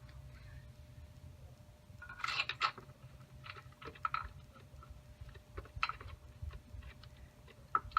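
Light clicks and taps of small metal parts being handled while a bolt and bracket are fitted by hand, with a cluster of clicks about two seconds in and scattered ones after, over a steady low hum.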